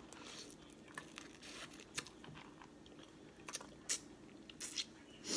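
Close-miked eating of a seafood boil: scattered sharp cracks and crunches of shellfish shell, about half a dozen, with quiet chewing in between.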